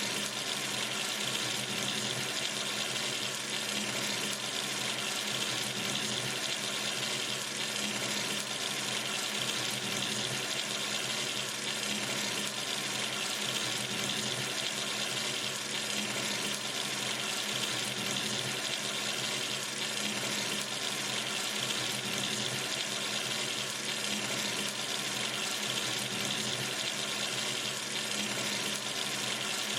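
Tap water running steadily into a sink, an even, unbroken splashing rush.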